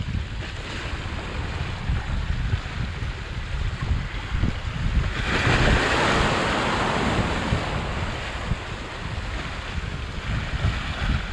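Sea surf breaking on a beach, with wind buffeting the microphone in a steady low rumble. About five seconds in a wave washes in louder for a few seconds, then fades back.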